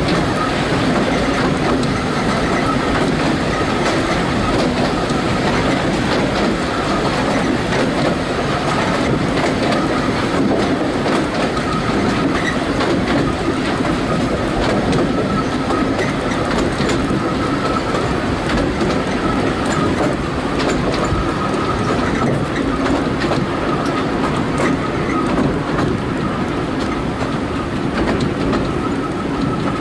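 A narrow-gauge passenger train running steadily along the track, the wheels rumbling and clattering over the rail joints, heard from an open carriage window. A faint high wheel squeal comes and goes.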